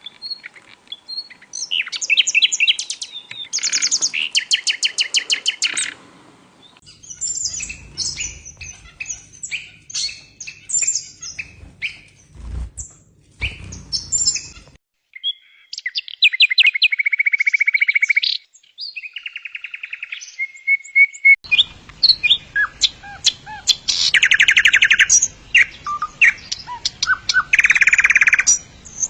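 Songbirds singing: fast trills, rapid runs of repeated notes and sharp chirps from several birds. The song changes abruptly about halfway and again a few seconds later, as separate recordings are joined.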